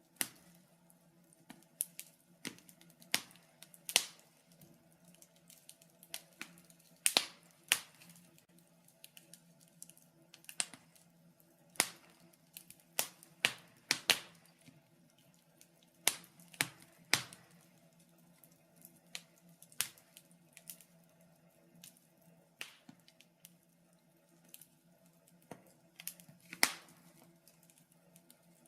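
Wood fire crackling in a fireplace: irregular sharp snaps and pops, sometimes several in quick succession, over a faint steady low hum.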